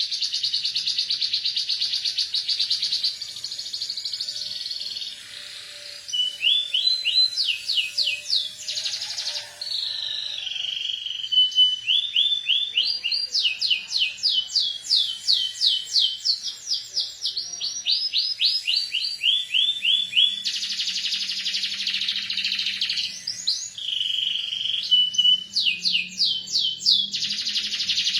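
Domestic canary singing without a break: long, very fast trills alternate with runs of quickly repeated rising notes. The song carries learned mountain prinia (ciblek gunung) phrases, including the prinia's rapid rattling 'ngebren' trill.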